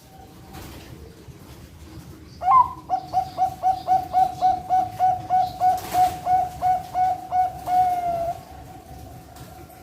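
Bangkok-strain perkutut (zebra dove) singing: one sharp higher opening note, then a fast, even run of about twenty short coos, roughly four a second, ending on a longer drawn-out note.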